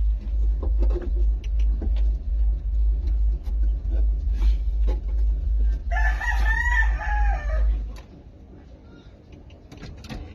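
A rooster crows once, a long arching call about six seconds in, over a loud low pulsing rumble that cuts off at about eight seconds.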